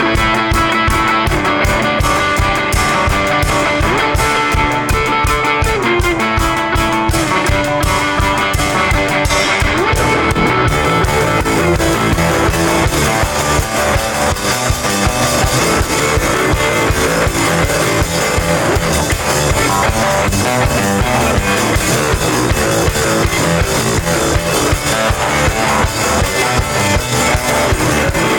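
Rock band playing without vocals: guitar over drum kit. About ten seconds in, the drumming thickens into a steady wash of cymbals.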